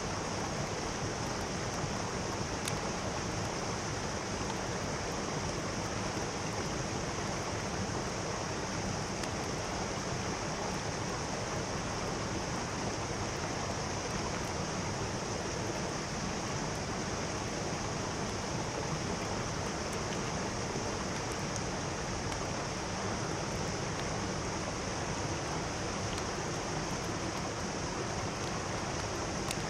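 Mountain stream rushing steadily over rocks, a continuous even sound of flowing water.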